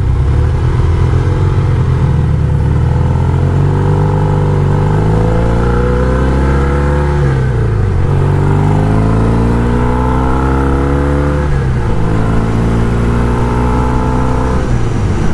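1974 Norton 850 Commando's parallel-twin engine pulling away under acceleration, rising in pitch, dropping sharply at an upshift about seven and a half seconds in, rising again and dropping at a second upshift near twelve seconds, then running steadily.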